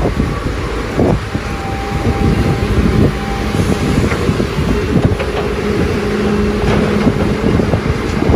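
Doosan DX300 excavator at work: its diesel engine runs under load with a steady hydraulic whine whose pitch shifts about halfway through, over frequent knocks and clanks from the digging.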